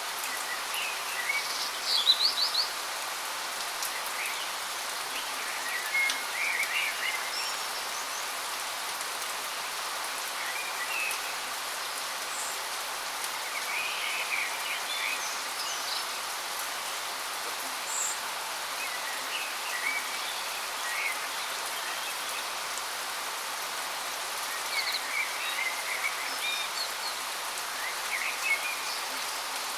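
Steady rush of a waterfall, with birds chirping in short bursts every few seconds over it, the loudest about two seconds in.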